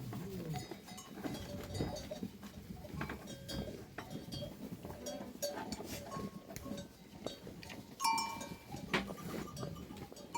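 Flock of sheep and goats milling about, their neck bells clinking irregularly, with a short bleat about eight seconds in.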